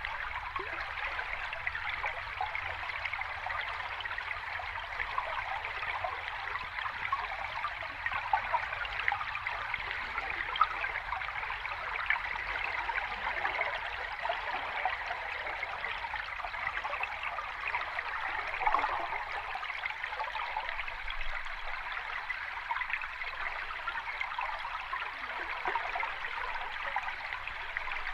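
Sea water washing gently at the shore: a steady watery hiss with small splashes, with no large wave surges rising and falling.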